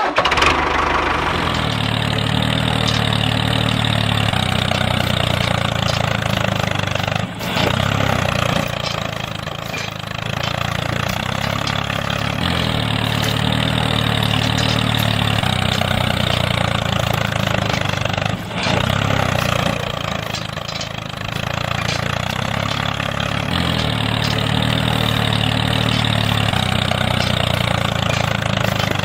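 A small engine running steadily, with two brief dips, about a quarter and about two thirds of the way through.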